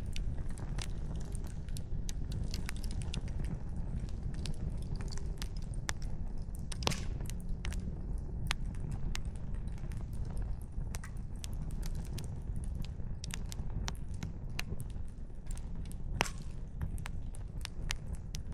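Wood campfire crackling, with firewood snapping in irregular sharp pops over a steady low rush; two pops, about 7 and 16 seconds in, are louder than the rest.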